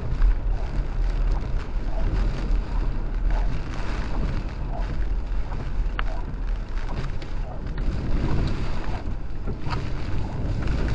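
Steady rumble of a truck driving, heard from inside the cab, with wind noise over it.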